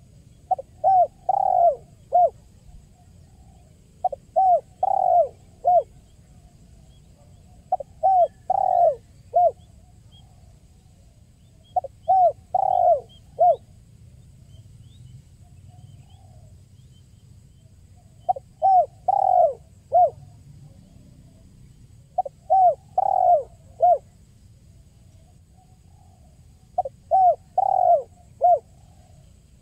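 Spotted dove (tekukur) cooing: a phrase of four or five coos, the middle one longest and the last short, repeated about every four seconds, with a longer pause near the middle.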